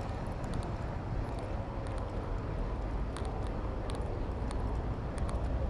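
Street traffic and road noise heard from a bicycle riding through city traffic: a steady low rush with scattered light clicks.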